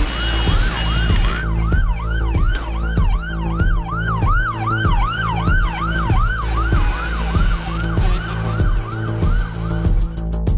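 A siren yelping fast, about four rising-and-falling sweeps a second, over a music track with a heavy, steady beat; fast high ticks join the beat about six seconds in.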